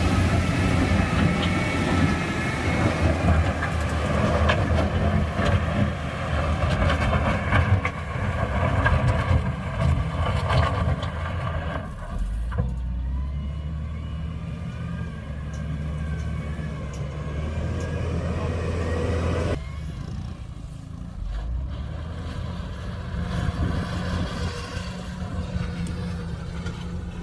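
Heavy diesel earthmoving machinery, a wheel loader or dump truck, working under varying load. The engine note rises and falls, with a whine that glides up and down. The sound shifts to a lower, steadier note about halfway through.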